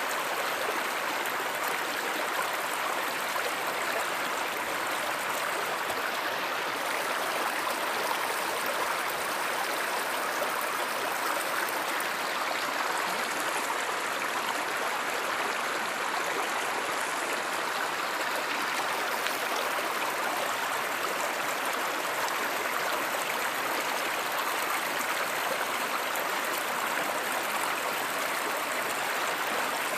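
Steady rushing and gurgling of a flowing stream or small river, unchanging in level.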